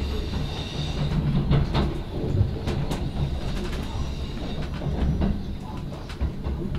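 Inside a moving electric commuter train: a steady low running rumble from wheels and running gear, with scattered sharp clicks and knocks from the rails.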